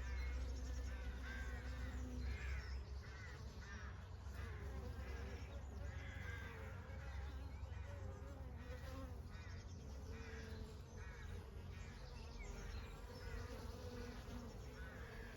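Honey bees buzzing, a steady hum that wavers in pitch as the bees move about.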